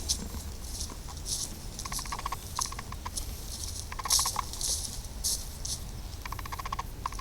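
A bird's short, rapid rattling calls, several times, over rustling footsteps through dry leaves and undergrowth.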